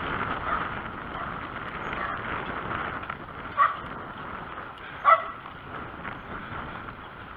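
A dog barks twice, two short barks about a second and a half apart, over steady outdoor background noise.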